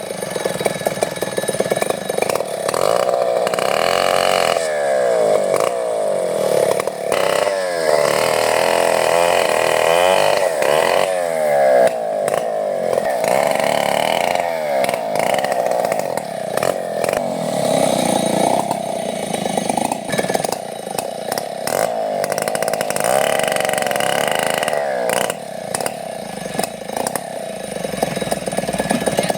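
Chainsaw engine running, its pitch rising and falling over and over as it revs and eases off.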